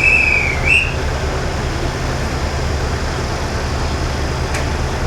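KiHa 20 diesel railcar under way, heard from the driver's end: its DMH17 diesel engine and running gear give a steady low throbbing rumble. A short high squeal that dips and rises again comes right at the start.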